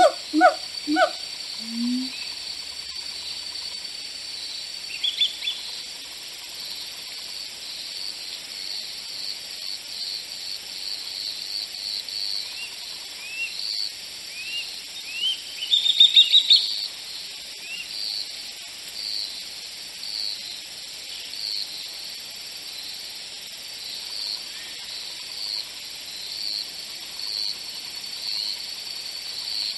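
Woodland birdsong: a bird repeats short high chirps about once a second, with a louder quick run of notes about halfway through. At the very start a short series of lower pitched animal calls ends within the first two seconds.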